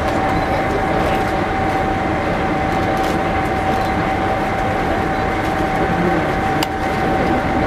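Steady idling of a diesel railcar waiting at the platform, with one even high-pitched hum running throughout, over a crowd's murmur.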